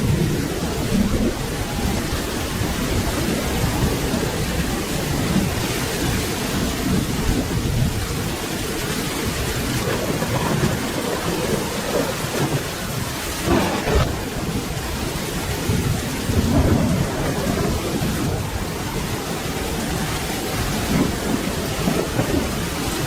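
Steady rain with rumbling thunder swelling and fading in the low end, and a sharp crack of thunder about 14 seconds in.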